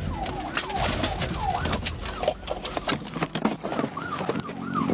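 Police car siren in a fast yelp, its pitch rising and falling about twice a second, with scattered knocks and clatter over it.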